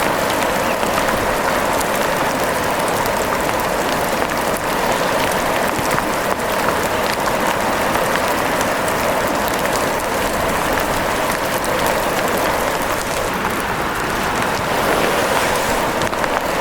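Steady, heavy rain, a dense even patter of drops with no let-up.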